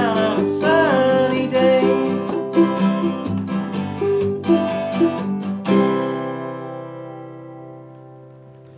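Acoustic guitar and ukulele strumming the closing bars of a song, ending on a final chord about six seconds in that rings on and slowly fades out.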